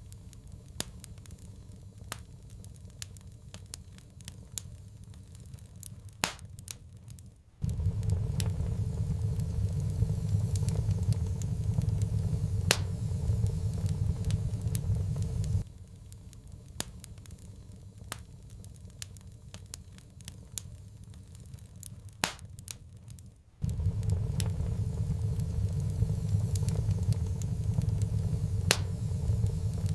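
Wood fire crackling in a fireplace, with sharp pops and snaps scattered throughout. A low rumble cuts in abruptly about eight seconds in, stops suddenly halfway through, and returns near the last third.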